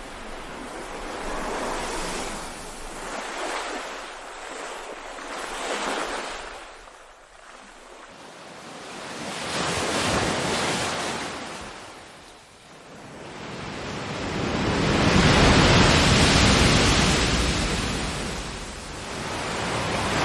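Ocean waves breaking and washing ashore in slow swells a few seconds apart, each a rising and falling rush of surf. The biggest and longest wave comes in the last third.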